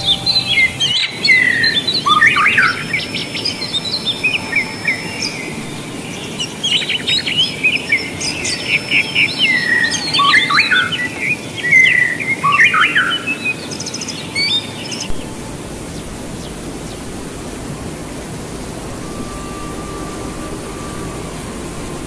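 Birds singing, a dense run of quick chirps and whistled gliding calls, over the steady rush of a waterfall. The birdsong stops about fifteen seconds in, leaving the rushing water.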